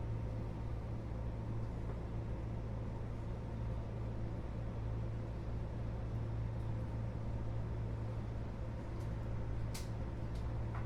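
Interior running noise of a Keio 8000 series train, heard from above its GTO-VVVF main controller: a steady low rumble with a constant hum and faint steady tones. A brief sharp click comes near the end.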